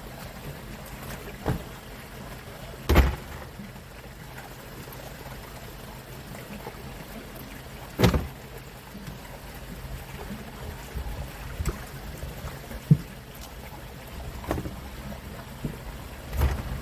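A fishing boat's engine runs with a steady low hum. Sharp knocks come about three seconds in and again about eight seconds in, with a few lighter knocks near the end.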